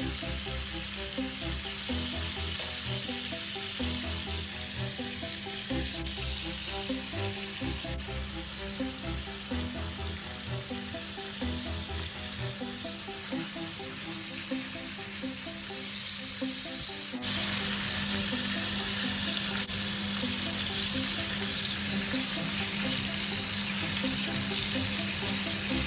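Chicken thighs sizzling as they fry in a stainless steel pan, under background music. The sizzle jumps suddenly louder about two-thirds of the way through.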